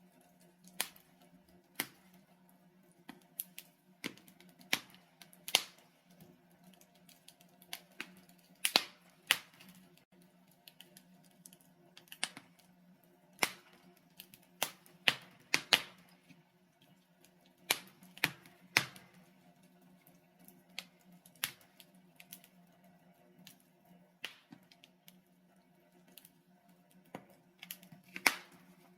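Wood fire burning in a fireplace, crackling with irregular sharp pops and snaps over a faint steady low hum.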